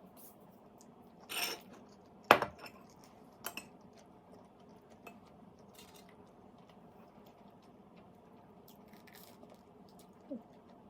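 A few separate clinks of eating utensils against a dish, the sharpest about two seconds in, over a faint steady hum.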